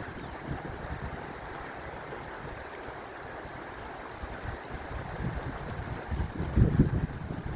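Wind buffeting the microphone in irregular low gusts over a steady rushing noise, the gusts growing stronger and loudest near the end.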